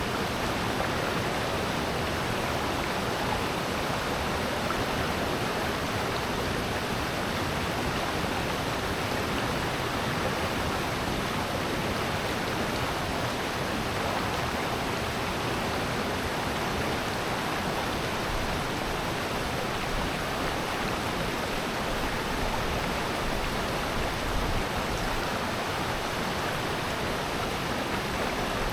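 A mountain stream rushing over rocks in a valley, with a steady, even rush of water and no breaks.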